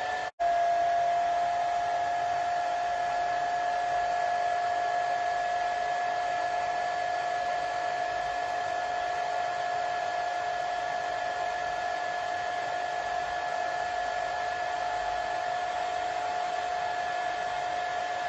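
Hair dryer running steadily: an even rush of air with a steady whine from its fan motor. The sound cuts out for a split second near the start, then resumes at a very slightly lower pitch.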